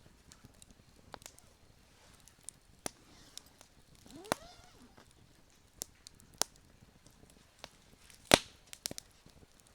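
Campfire burning: scattered sharp snaps and pops of burning wood, about a dozen in all, the loudest about eight seconds in.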